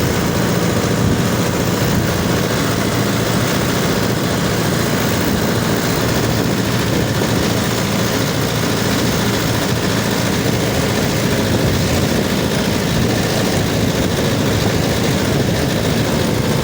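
Mahindra Yuvo 575 DI 4WD tractor's diesel engine running steadily.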